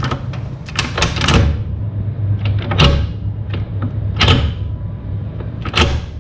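Newly installed, freshly greased floor shifter being worked through its gears, with the shifter and shift-rod linkage clunking into place about four times, roughly every second and a half. The linkage is moving freely after adjustment. A steady low hum runs underneath.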